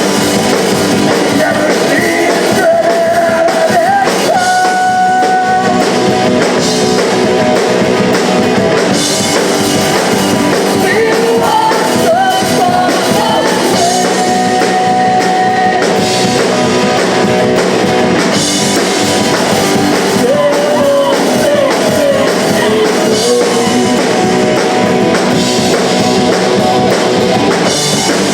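Live punk rock band playing a song: guitars and drum kit with a voice singing over them.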